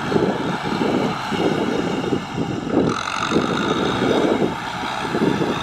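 Tractor engine running under load, its sound rising and falling in uneven pulses about twice a second.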